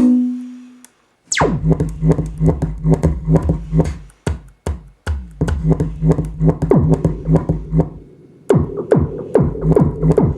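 KORG Kaossilator handheld synthesizer playing its preset number 23: a fast electronic pattern of short notes over a repeating bass line. It stops just after the start and comes back in with a quick downward sweep, then breaks off briefly a couple more times.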